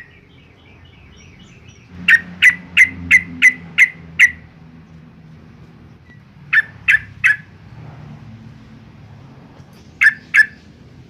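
Yellow-vented bulbul giving loud, sharp calls, each a short note that drops in pitch, in bursts: a quick run of about seven about two seconds in, three near the middle, and two near the end.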